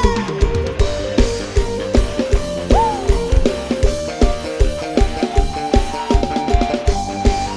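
Live band music with no singing: a drum kit keeps a steady dance beat under an instrumental melody line.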